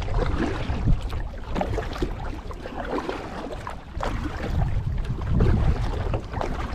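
A kayak being paddled: water splashing and dripping around the paddle, with wind rumbling on the microphone. It goes quieter in the middle and picks up again about four seconds in.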